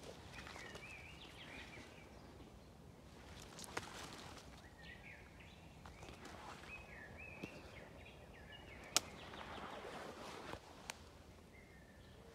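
A songbird singing several short warbling phrases, with faint rustling in the undergrowth and a sharp click about nine seconds in.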